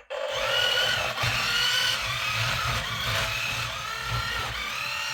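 Toy RC battle tank running its demo mode: a buzzy low rumble with a whine that rises and falls about once a second.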